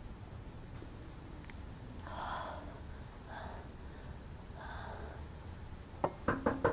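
A woman gasping for breath three times in labored, wheezy pulls during an asthma attack, followed by a quick run of sharp clicks near the end.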